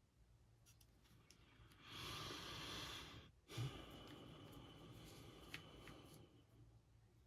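A person's breath close to the microphone: a breathy intake about two seconds in, then a longer, softer sigh-like exhale that fades out.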